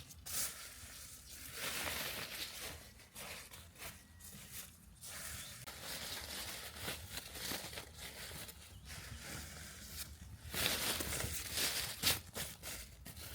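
Rustling and crinkling of something being handled, an irregular run of crisp little rustles that grows louder near the end.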